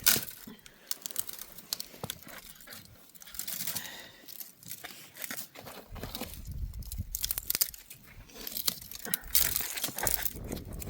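Dry crackling and rustling with many scattered snaps, as of dry material being handled or broken; a sharp crack right at the start is the loudest sound.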